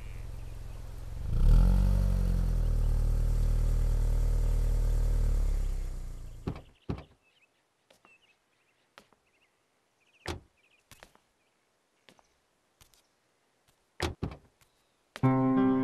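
A vehicle engine comes on sharply and runs steadily for about four seconds before fading away, followed by a series of short knocks and clicks, the loudest near the end.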